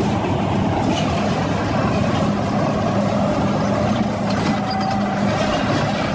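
Bulldozer's diesel engine running steadily, a constant heavy-machinery drone.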